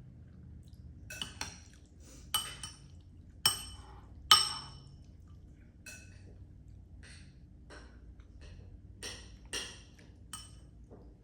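Spoon and fork clinking against a dish while eating: a run of sharp, ringing clinks, the loudest a little after three and four seconds in, with lighter taps scattered through the rest.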